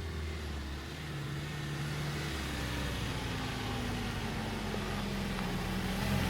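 A motor vehicle driving, its engine humming steadily with the note rising slowly.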